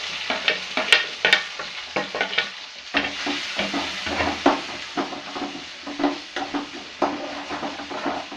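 Tomatoes and green chillies sizzling in hot oil in a kadai during a tadka, with a steel spoon stirring and scraping against the pan in frequent, irregular clinks.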